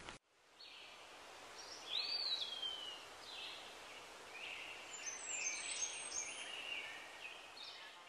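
Birds calling over a faint steady hiss: a whistled note about two seconds in that rises, then slides down for about a second, followed by a run of short high calls.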